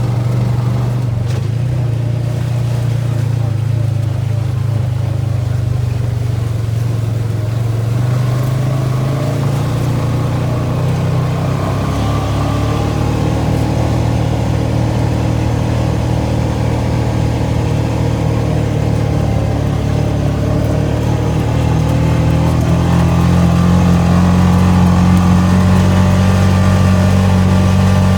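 ATV engine running steadily under way. Its pitch shifts about halfway through and it gets a little louder and higher near the end as the throttle opens.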